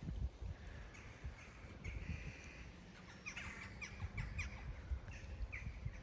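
Birds calling outdoors: a few held calls about two seconds in, then a quick run of short falling chirps and a few more near the end, over a low rumble.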